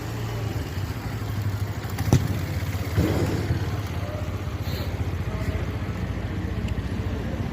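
Motorcycle engine running steadily at low revs, with two sharp knocks about two and three seconds in.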